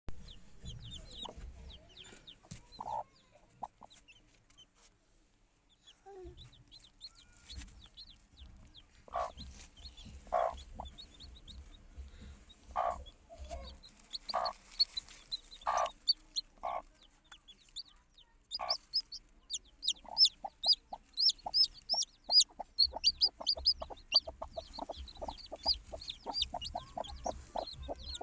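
Chickens clucking: single calls spaced out at first, then a run of rapid clucks about two-thirds of the way in, with many quick high-pitched chirps over them.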